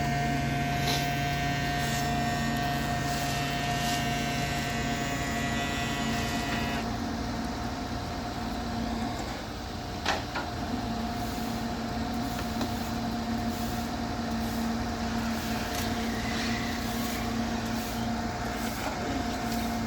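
Recovery flatbed truck running steadily at the roadside, with a higher machine whine over it that cuts off about seven seconds in. A single sharp click comes about ten seconds in.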